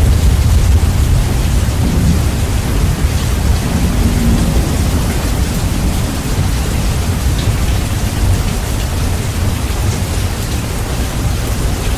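Bass-boosted recording of steady rain, with a deep thunder rumble that slowly fades away.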